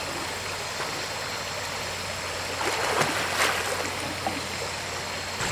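Mountain stream water rushing and trickling steadily, briefly louder a little past halfway through.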